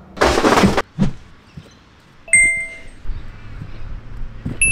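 A short, loud rushing burst and a thump, then two bright, ringing dings: one about two seconds in and another near the end, each dying away within about half a second.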